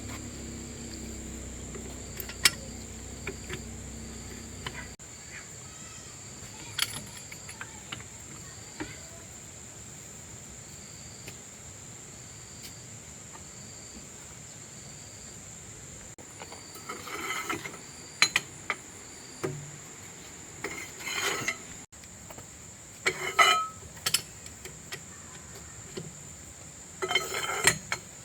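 Crickets trilling steadily in the background, with a short chirp repeating about once a second. Over this come intermittent metallic clinks and clanks of tools and parts, bunched in short clusters in the second half. A low hum underneath stops abruptly about five seconds in.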